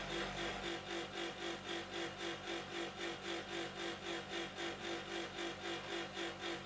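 Refrigerator running with a rhythmic rasping pulse, about four beats a second, over a steady hum.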